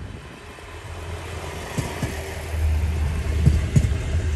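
Diesel train pulling in, its engine rumble growing louder about halfway through, with a few short low thumps.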